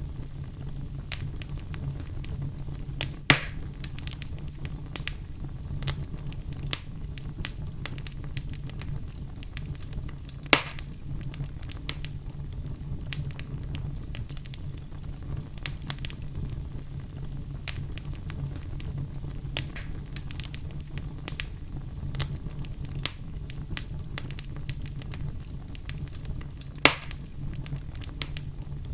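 Fire crackling in a fireplace: a steady low rumble under constant small crackles, with three loud pops, a few seconds in, about ten seconds in and near the end.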